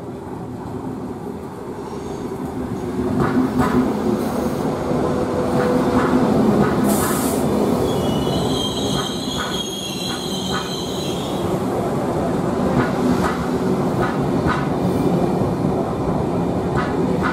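A train moving through a station: a rumble that builds over the first few seconds and then holds steady, with repeated clacks of wheels over rail joints. There is a short hiss about seven seconds in, then a high wheel squeal for a few seconds about halfway through.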